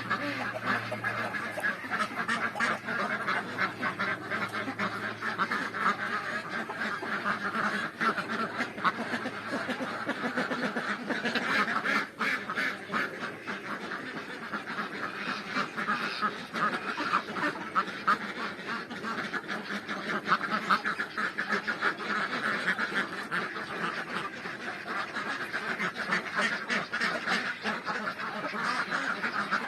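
A flock of Pekin ducks quacking continuously, many birds calling over one another.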